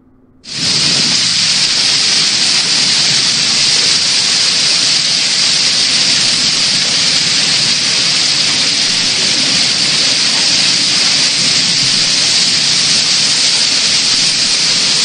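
Hailstorm with heavy rain: a loud, dense, steady hiss of hailstones and rain pelting down, cutting in suddenly about half a second in.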